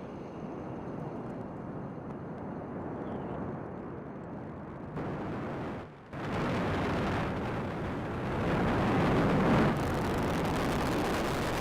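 Falcon 9 rocket's nine Merlin engines firing during liftoff and ascent, a steady rushing noise. It drops out briefly about six seconds in and comes back louder.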